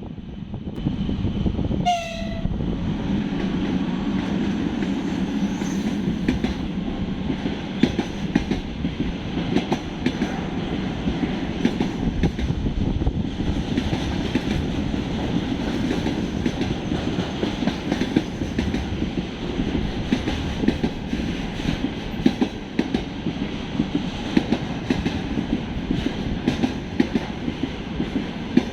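A train running past close by: a steady rumble with wheels clattering over rail joints in quick clicks, after a short horn blast about two seconds in.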